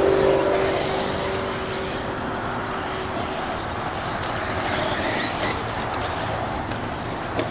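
Electric RC buggies racing on the track: a motor whine fades over the first second or so, leaving a steady wash of motor and tyre noise.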